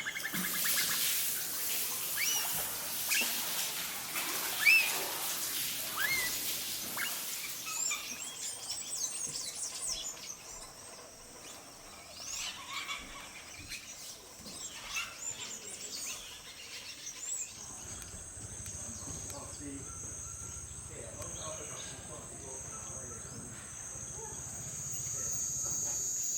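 Amazon rainforest ambience: many birds calling, with short rising and falling chirps and whistles. About two-thirds of the way through, a steady high insect drone sets in, along with a low hum.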